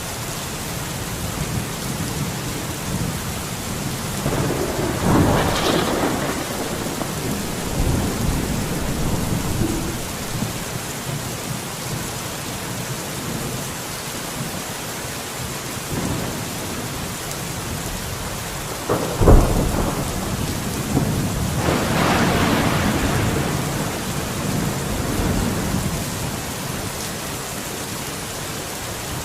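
Steady rain with two rolls of thunder, one about five seconds in and a longer one starting with a sharp crack about nineteen seconds in.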